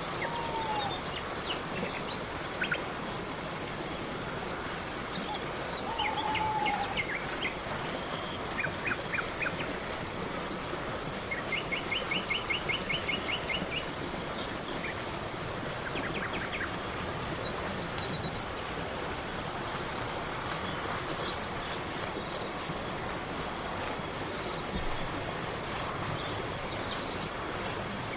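Night-forest ambience of crickets chirping in a steady, rapid pulse, with a few faint, short bird calls and trills scattered through it, the longest a quick trill around the middle.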